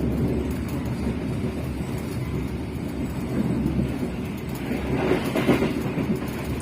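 Steady low rumble of a moving passenger train running on the rails, with a louder rattling surge about five seconds in.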